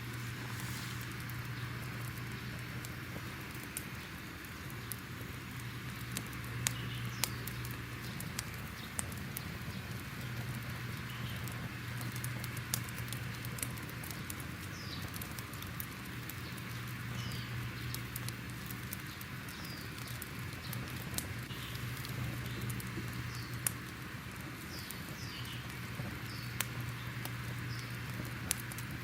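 Crackling fire ambience: a steady hiss and low rumble with scattered sharp pops and crackles throughout.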